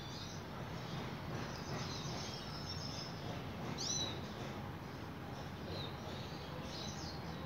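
Faint, scattered high-pitched bird chirps over a steady low background hum, with one clearer rising-and-falling chirp about four seconds in.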